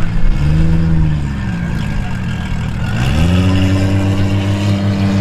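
Muscle car engine blipped briefly about a second in, then revved up near three seconds in and held at a steady higher speed.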